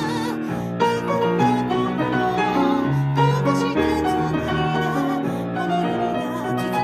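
Piano played four hands: a duet of sustained chords in the low register under a melody line.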